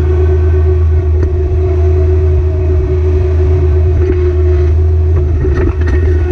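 Kubota BX-series compact tractor's small three-cylinder diesel engine running steadily under work, with a steady whine above the low engine note and a few short knocks, the last ones near the end.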